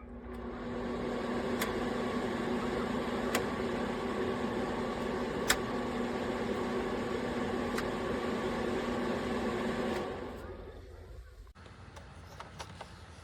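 Small ceramic space heater's fan running with a steady hum. It comes up over the first second and winds down about ten seconds in, with a few sharp ticks over it.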